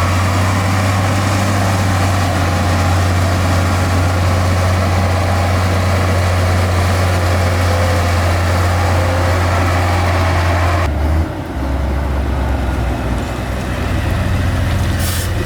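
Heavy diesel engine of earthmoving machinery running steadily with a strong low drone. About eleven seconds in it dips briefly and carries on at a lower pitch.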